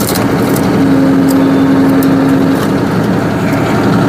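Tractor engine running steadily as it drives a tractor-mounted hydraulic log splitter, with a steady hum that gets stronger for about two seconds in the middle.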